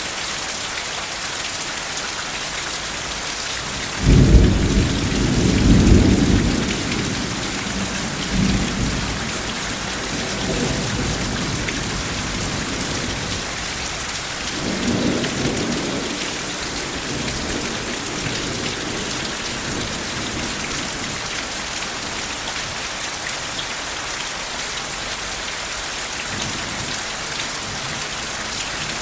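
Steady heavy rain hissing, with a clap of thunder about four seconds in that rumbles on for several seconds, and a softer roll of thunder about halfway through.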